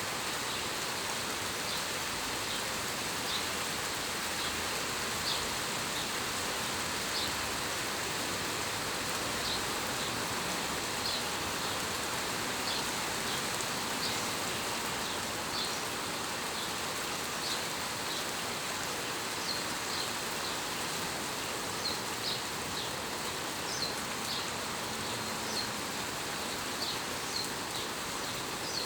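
Steady rain falling as an even hiss, with scattered short high ticks that come more often near the end.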